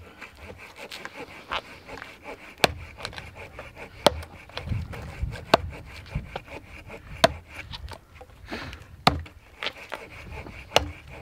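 Sharp woody knocks and snaps roughly every second, with rustling in between: wood being handled or broken.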